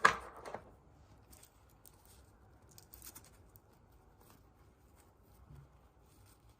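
Surprise-egg packaging being handled: a short, sharp crinkle and crack at the start, then faint scattered clicks and rustles of wrappers and plastic.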